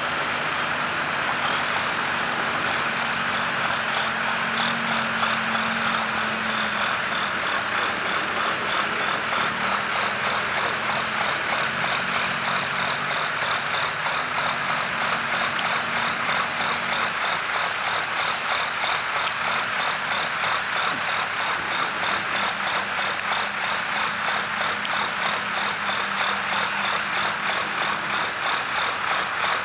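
Tractor engine running steadily under load, with a fast, even pulsing throb.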